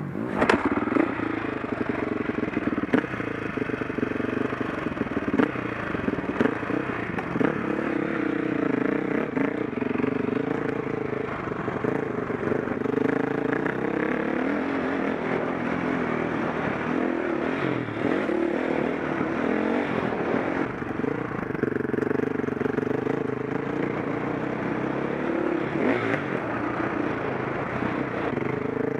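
KTM 525 SX four-stroke single-cylinder motocross engine, heard from on the bike, revving up and dropping back as the throttle opens and closes. There is a sharp knock just after the start and scattered clattering from the bike throughout.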